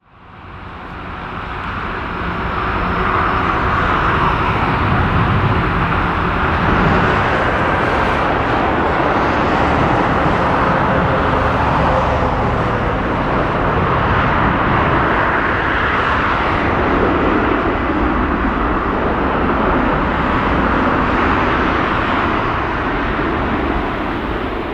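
Steady jet noise of a four-engined Airbus A380-800 landing, fading in over the first couple of seconds and easing slightly near the end.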